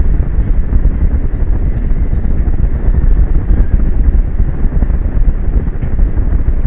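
Strong wind buffeting the microphone: a heavy, gusting low rumble that rises and falls without a steady pitch.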